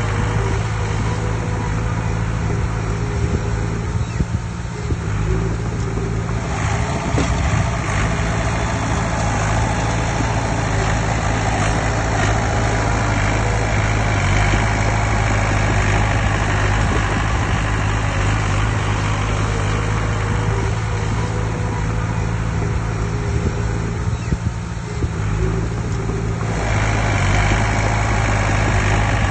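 Heavy diesel engine of earthmoving machinery running steadily with a deep drone. From several seconds in until near the end its sound grows brighter and busier, as if working under load.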